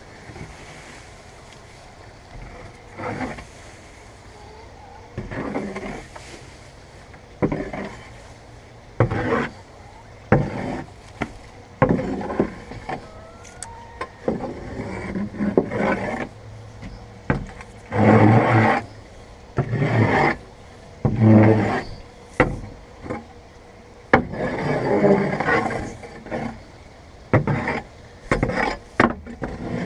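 Hoe scraping soiled hay and chicken manure out of a chicken coop in repeated, irregular strokes, the loudest scrapes coming in the second half.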